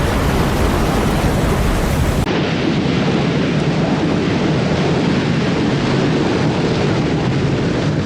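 Typhoon storm noise: a steady roar of wind and heavy rain, which changes abruptly about two seconds in, its hiss turning duller.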